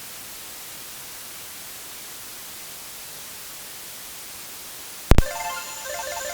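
Steady static hiss, then a loud pop about five seconds in, after which a video slot machine's electronic game music starts up as a quick beeping melody.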